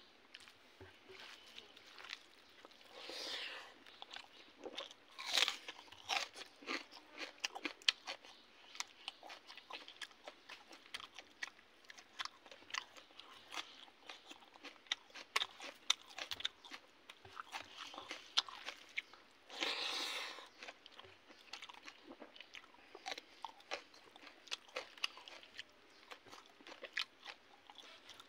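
A person eating rice and fried fish close to the microphone: chewing and crunching with many quick smacking clicks, and a few longer, louder sounds about 3, 5 and 20 seconds in.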